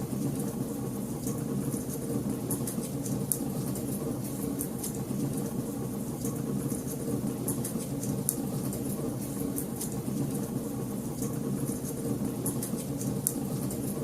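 Wood fire in a fireplace crackling: many sharp little pops and snaps at irregular intervals over a steady low sound of the burning.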